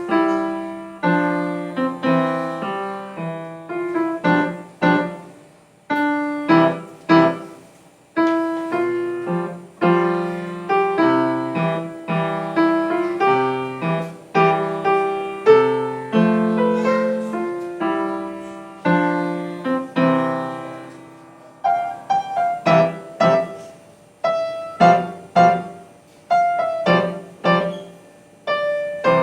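Solo piano playing a piece: a steady run of struck melody notes over chords, each note fading after it is struck.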